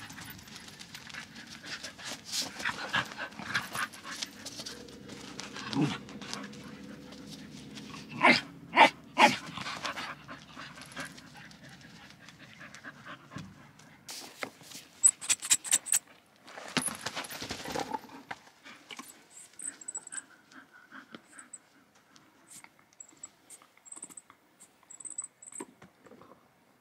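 Dogs, an Airedale terrier and a wire fox terrier, panting and scuffling as they play on a tent's floor mat. There are a few loud sudden sounds about eight seconds in. The second half is quieter, with soft scattered ticks.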